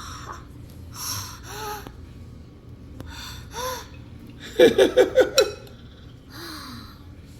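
A young child giggling and breathing hard: breathy gasps, then a quick run of five or six high giggles about halfway through, then more breaths.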